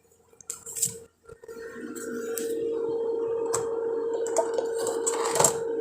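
A few clinks of kitchenware, then hot water poured steadily from a kettle into a cup. More clinks come through the pour.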